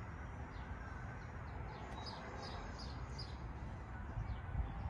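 A small bird chirping repeatedly, short falling notes about three a second that come in a run around the middle, over a low steady background rumble.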